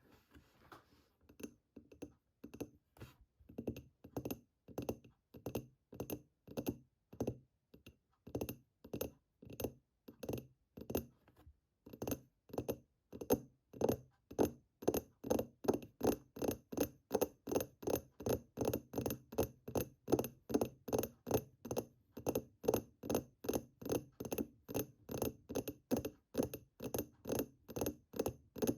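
Fingers tapping on a hard object in a steady rhythm, each tap with a slight ringing tone. The taps pick up pace and get louder about twelve seconds in, to about four a second.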